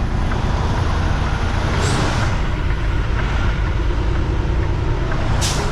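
Semi-truck running at low speed, a steady diesel and road rumble, with two short air-brake hisses, about two seconds in and again near the end.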